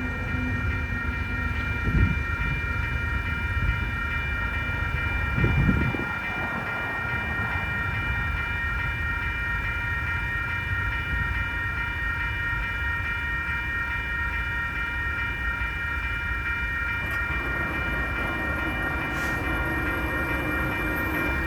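BNSF manifest freight train's cars rolling through a grade crossing with a steady low rumble and two heavier thumps, one about two seconds in and another a few seconds later. A grade-crossing warning bell rings steadily over it.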